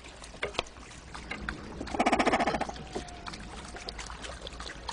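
A cormorant gives one harsh, rattling croak about two seconds in, among scattered small clicks and knocks.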